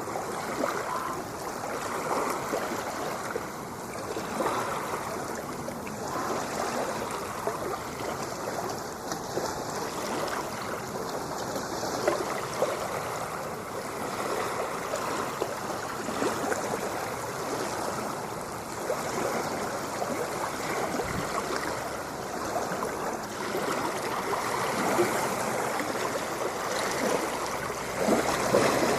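Ocean water washing and lapping as a continuous rush, with small swells every few seconds and a slightly stronger surge near the end.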